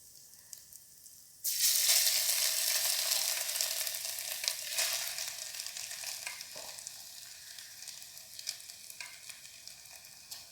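Drained, wet Maggi noodles dropped into hot oil and masala in an electric kettle: a sudden loud sizzle starts about a second and a half in, then slowly dies down.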